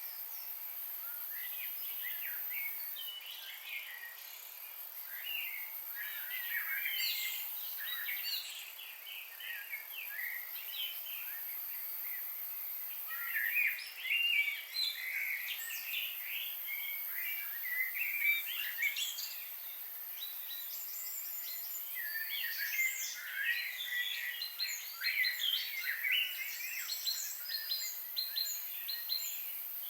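Several wild birds singing and calling together, a dense mix of short chirps and trills that comes in busy spells, heaviest about halfway through and again near the end, over a steady high-pitched hiss.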